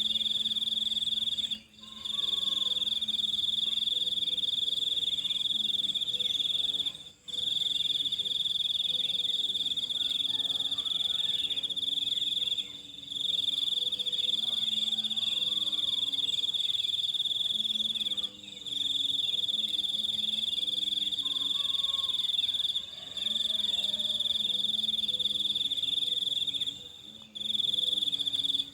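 A steady, high-pitched insect trill, cricket-like, that cuts out briefly every five seconds or so. Fainter, short low calls repeat underneath.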